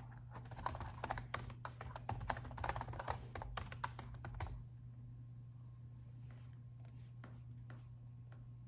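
Typing on a laptop keyboard: a quick, dense run of key clicks that stops about halfway through, then a few faint scattered clicks, over a steady low hum.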